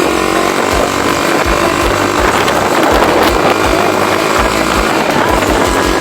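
Motorcycle riding at speed: a steady engine hum under heavy, gusty wind buffeting on the microphone.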